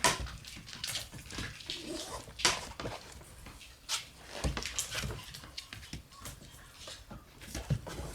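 Shiba Inu puppy moving about, making scattered, irregular clicks, taps and scuffles.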